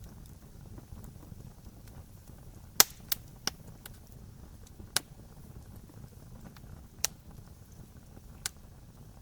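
Wood campfire crackling: half a dozen sharp pops, the loudest about three seconds in, over a steady low rumble from the flames.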